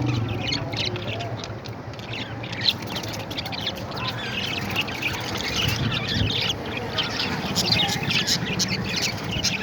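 A group of parrots chirping and squawking: many short, overlapping calls without a break.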